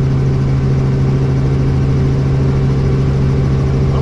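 Helicopter running steadily: a loud, constant low hum from the engine and rotor with a fast low pulsing of the blades beneath it.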